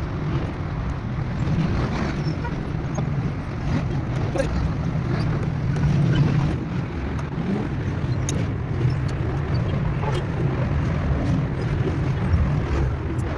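Steady low rumble of a running motor vehicle, with faint scattered clicks.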